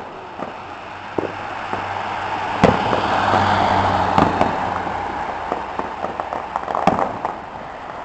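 Fireworks finale: rapid pops and bangs over dense crackling. The crackling swells about a third of the way in and eases off after about two-thirds, with three louder bangs: about a third in, about halfway, and near the end.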